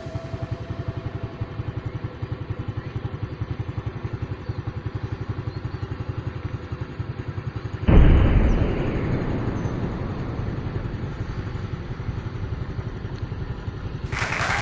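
An engine running with a rapid, even pulse. About eight seconds in the sound suddenly becomes louder and fuller, then eases back.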